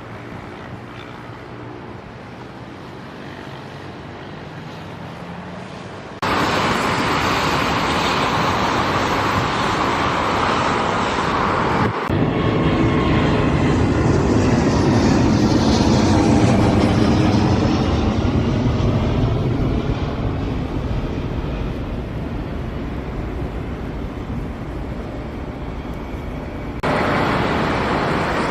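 Boeing 787-9 jet engines at takeoff power, a steady jet roar as the airliner accelerates and climbs out. The roar is moderate at first and jumps up suddenly about six seconds in and again about twelve seconds in. It then slowly fades and jumps up once more near the end.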